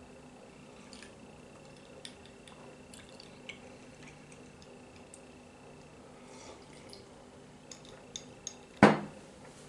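Faint scattered clinks and taps of tableware, then one loud sharp knock with a short ring near the end, as a dish or glass is set down on the table.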